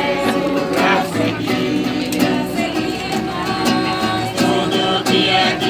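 A hymn sung by several voices over a strummed acoustic guitar.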